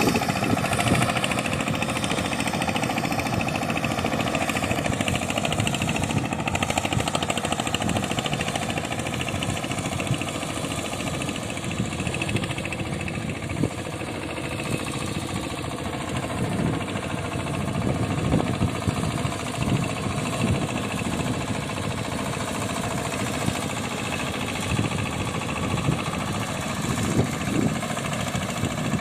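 Boat tractor's engine running steadily with an even, rapid firing beat.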